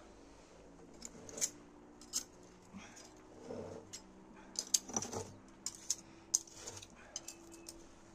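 Irregular sharp metallic clinks and clacks of cooking utensils and cookware being handled, a dozen or so, busiest around the middle.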